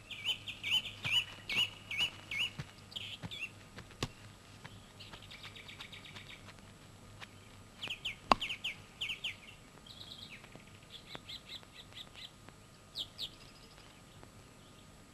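Small birds chirping and singing in repeated short phrases and quick trills, coming in runs with short pauses between them. A single sharp click a little past eight seconds stands out above the birdsong.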